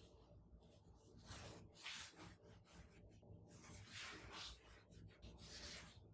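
Faint rubbing strokes on a surface, a soft hiss swelling and fading at irregular intervals about once a second.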